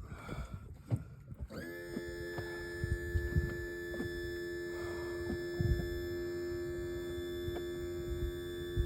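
A small motor spins up about a second and a half in and runs with a steady whine, over scattered low knocks and thumps.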